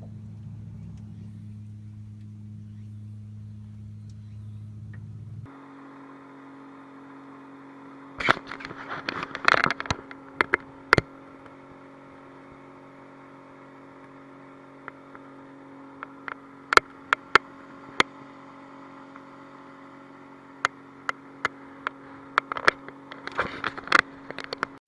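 Boat engine running steadily, its hum changing abruptly to a different, higher set of tones about five seconds in. Scattered sharp knocks and clicks of gear being handled sound over it, in clusters around the middle and near the end.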